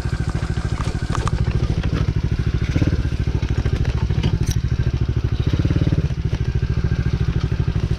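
Small 110cc four-stroke single-cylinder pit bike engine running steadily at low revs, with slight swells in engine speed about three and six seconds in.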